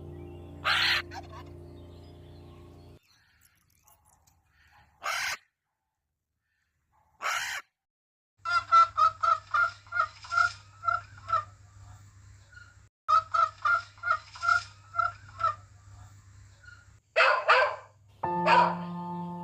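Domestic fowl calling: a few single calls, then two runs of quick repeated calls at about four a second, and louder calls near the end. Background music fades out early and comes back shortly before the end.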